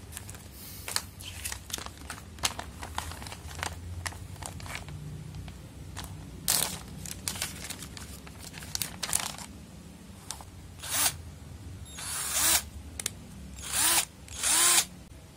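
Xenon cordless electric drill run in short bursts, its motor whirring up and winding down as the trigger is squeezed and released, with clicks and rattles of handling in between. The bursts come closer and louder near the end.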